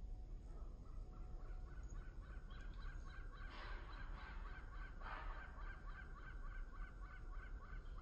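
A bird calling in a fast steady series of short repeated notes, three to four a second, starting about half a second in.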